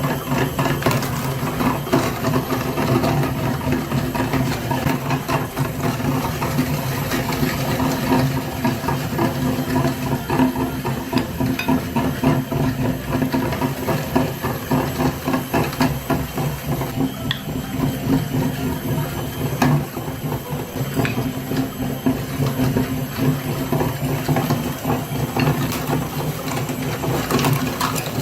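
A small motor running steadily with a dense, rapid mechanical clatter of gears, as from a mini tractor.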